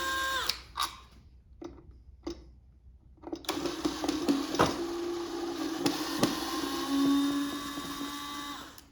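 Small electric power-tool motor running in two spells, its humming pitch stepping up and down. Between the spells come a few metallic clicks, and sharp knocks break in during the second spell.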